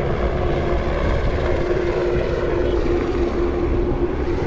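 Steady aircraft engine and rotor noise, loud and unbroken, with a constant hum over a low rumble.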